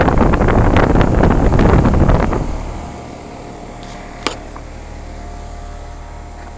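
Carrier central air-conditioner condensing units running: loud rushing air buffets the microphone for the first two seconds or so, then fades to a steady hum of the compressor and condenser fan. A single sharp click sounds about four seconds in.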